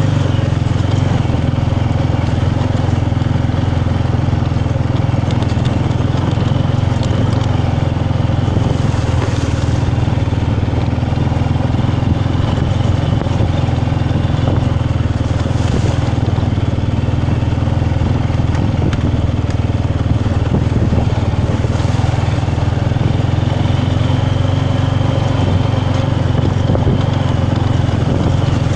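Off-road bike engine running steadily at an even speed while riding, a constant low drone with no revving.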